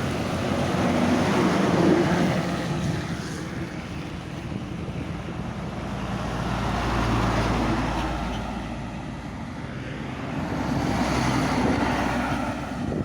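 Hino Ranger truck running on the road, with wind rumbling on the microphone. The noise swells and fades several times.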